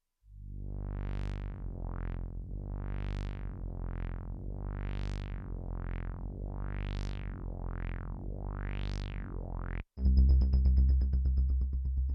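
Yamaha AN200 analog-modelling synthesizer holding a low bass note while its resonant filter sweeps open and shut about once a second, alternating bigger and smaller sweeps. Near the end it cuts off and a louder patch starts, a steady high whistling tone over a low pulsing bass.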